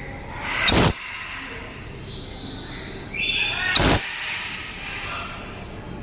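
Dusky lory calling harshly: two loud calls about three seconds apart, each building up to a sudden sharp peak, the second led in by a short rising note.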